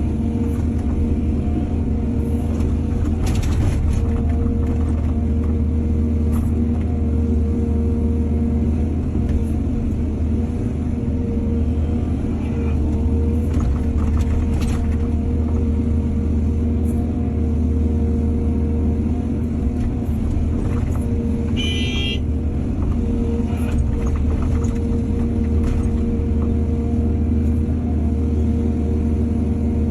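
Heavy diesel engine of an excavator running steadily under load. A few short knocks come through, and there is a brief high squeal about two-thirds of the way in.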